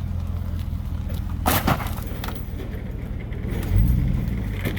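Turbocharged V6 of a 1996 Pontiac Trans Sport minivan running at a steady idle, spitting beer and oil from the exhaust. A short noisy burst comes about a second and a half in, and the engine swells briefly near the end.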